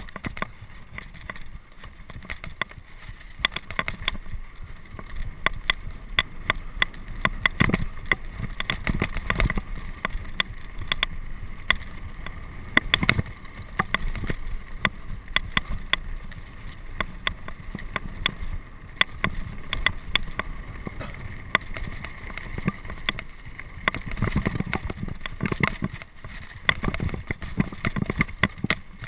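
Mountain bike descending rough ground at speed: dense irregular rattling, clicks and knocks from the frame, chain and wheels over rocks and roots, with wind buffeting the microphone.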